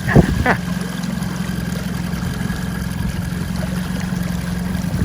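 A sailboat's auxiliary engine running steadily at low speed, a low even drone with a fine rapid pulse. A short louder sound breaks in about half a second in.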